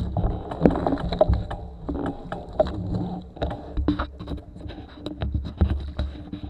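Bicycle rattling and knocking over rough ground, with wind rumbling on the microphone in uneven gusts.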